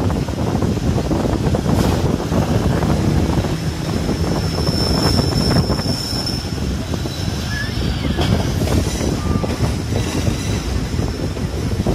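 Passenger train running, heard from an open coach window: a steady rumble and rattle of wheels on the track. A high steady wheel squeal rings for about two seconds near the middle.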